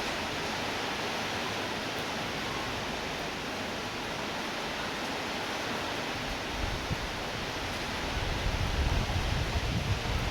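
Steady hiss of rainfall. In the last couple of seconds, gusts of wind buffet the microphone with an uneven low rumble.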